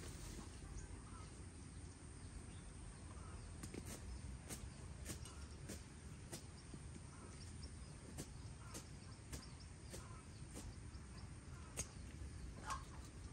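Quiet rural ambience: faint short bird chirps and scattered light clicks over a low steady hum.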